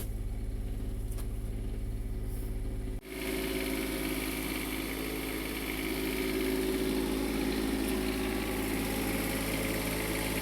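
Onan 7500 Quiet Diesel generator running steadily under the load of the RV's air conditioner, warming up. About three seconds in, the low hum changes abruptly to a louder, fuller running sound with fan-like hiss.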